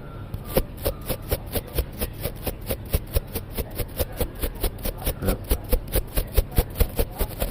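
Quick, even strokes of an object against the microphone, about five to six a second, each a short scratchy hit.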